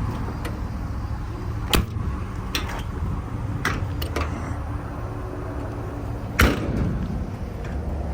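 Steel utility-body compartment doors being worked: latch clicks and knocks, then a sharp bang a little over six seconds in as a door shuts, over a steady low hum.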